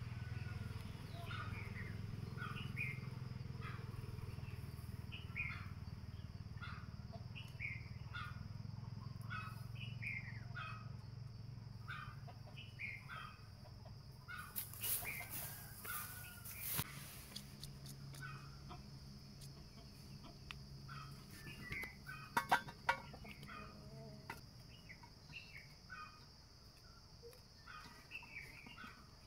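A bird calling in short repeated chirps about once a second over a steady high insect drone. A burst of rustling comes about halfway through, and a few sharp clicks follow some seconds later.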